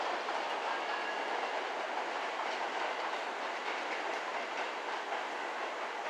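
Seibu electric train running along the track: a steady rail noise with wheel clatter that slowly fades.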